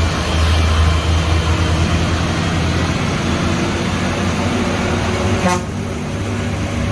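Heavy truck engine running with a deep, steady rumble amid road traffic, with a short, sharp sound about five and a half seconds in.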